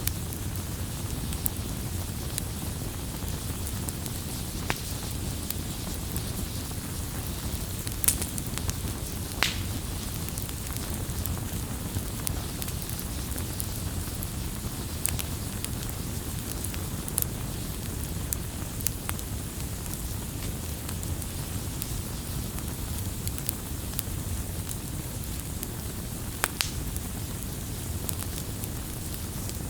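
Campfire burning with a steady low rumble and scattered sharp crackles and pops, a few of them louder, about 8 and 9.5 seconds in and again near the end.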